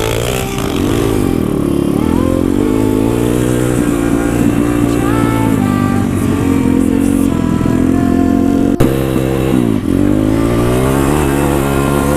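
Pit bike engine running under way, its revs rising and falling with the throttle. A sharp click comes about nine seconds in, then the revs dip and climb again.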